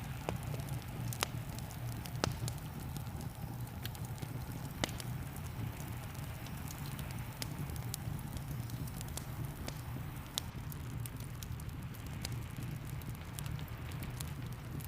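Wood fire crackling in a fireplace, with scattered sharp pops at irregular moments. Underneath runs a steady low rumble and an even hiss of rain.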